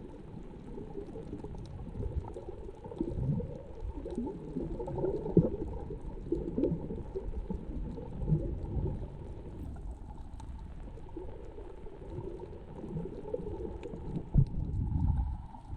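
Muffled water sloshing and gurgling, uneven, with a couple of louder knocks about five seconds in and near the end.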